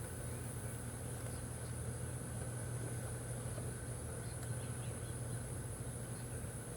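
Steady insect drone: a low, even hum of honeybees around the open hive, with a continuous high-pitched insect trill above it.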